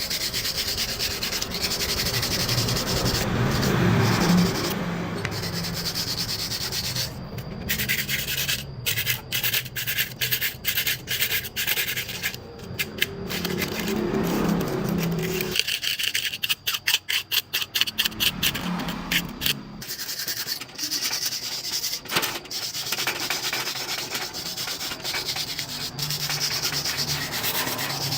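Sanding by hand: continuous abrasive rubbing strokes, with a quick run of short back-and-forth strokes about halfway through.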